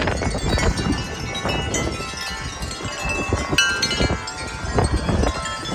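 Wind chimes ringing and clanging without a break, many overlapping tones struck again and again as strong gusting wind shakes them. Wind buffets the microphone with a low, gusty rumble.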